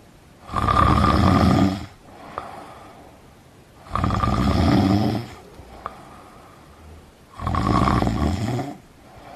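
A person snoring in sleep: three loud snores about three and a half seconds apart, each lasting just over a second, with quieter breathing between.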